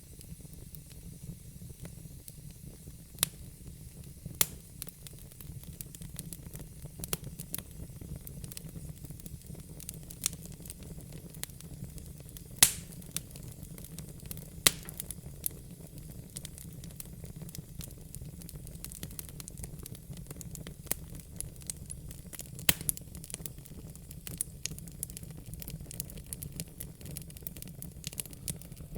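Fire crackling: irregular sharp pops and snaps, a few much louder than the rest, over a low steady rumble and soft hiss.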